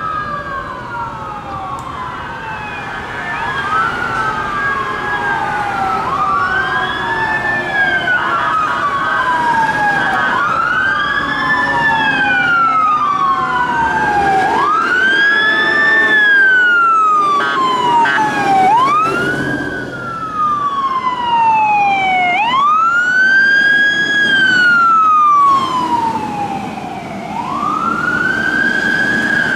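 Fire truck sirens wailing, including a Federal Signal Q mechanical siren. Each sweep rises quickly and falls away more slowly, about every two seconds, with more than one siren overlapping.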